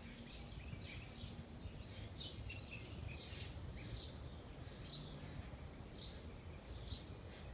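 Small songbirds chirping on and off, short high chirps scattered throughout, over a steady low background rumble.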